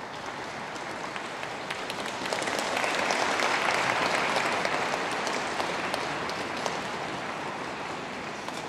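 Rink audience applauding, swelling about two seconds in and then slowly fading.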